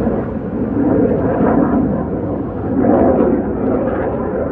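Loud engine noise of an F-22 Raptor fighter jet flying by: a rough, rushing rumble without a clear tone that swells about a second in and again near three seconds.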